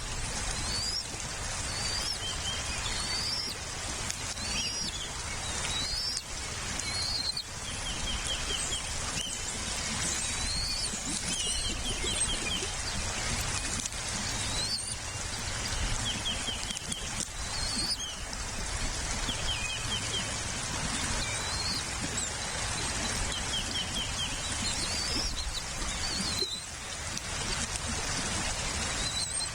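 A bird calling over and over: short rising chirps and quick stuttering trills, repeating every second or two, over a steady background hiss.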